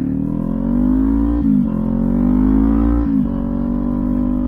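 Kawasaki Ninja 400 parallel-twin with a LeoVince aftermarket exhaust accelerating through the gears: the engine note climbs, drops sharply at an upshift about a second and a half in, climbs again and drops at a second upshift about three seconds in.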